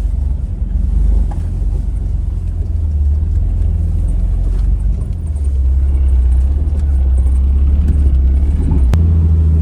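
Jeep engine running at low revs, crawling over rock, a steady low rumble whose note shifts about halfway through and again near the end. A single sharp click comes just before the end.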